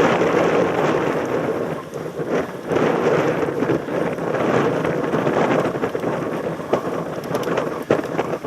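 Wind buffeting a helmet camera's microphone while riding a mountain bike, mixed with the rumble of the tyres over the trail. A few sharp clicks and rattles come near the end as the bike jolts over bumps.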